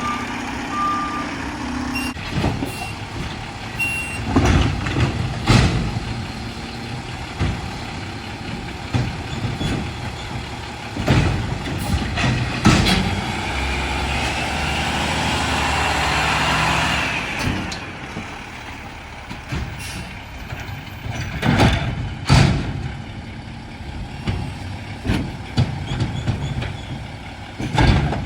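Mack LR garbage truck with a McNeilus side-loader body working a collection route: the engine runs under repeated sharp metal bangs and clanks, with a few short beeps in the first seconds. In the middle a whine and hiss builds for a few seconds and stops about 17 seconds in.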